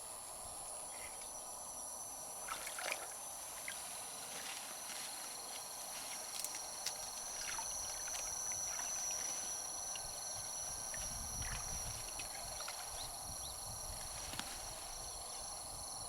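Gentle trickling river water with scattered small clicks and light splashes, over a steady high-pitched whine.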